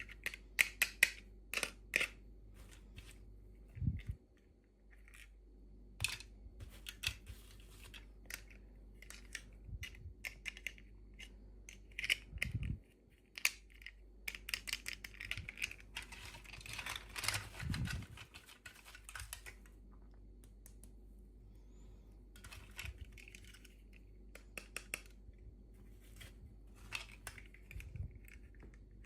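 Small plastic toy pieces and packaging being handled during an unboxing: irregular light clicks and taps, with a longer rustling stretch about halfway through.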